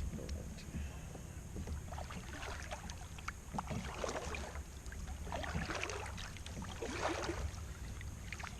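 Small handling noises aboard a fishing kayak: scattered light knocks and clicks with a few brief rustling or splashing swishes, over a low steady rumble.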